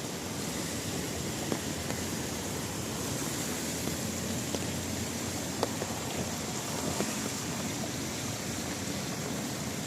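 Steady rain falling, an even hiss, with a few scattered sharp ticks of drops striking nearby surfaces.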